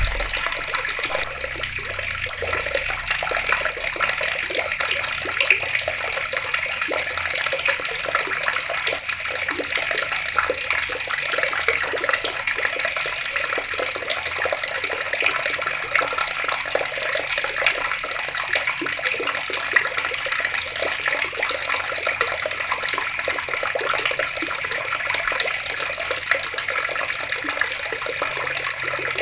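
Water running steadily from an outdoor tap, a constant dense splashing.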